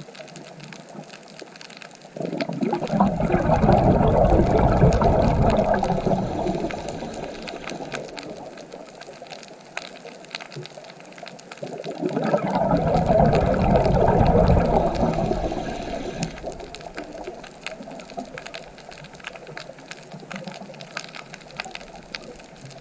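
Ocean waves: two waves surge and break about ten seconds apart, each rising quickly and ebbing away over several seconds, with a lighter wash of water between them.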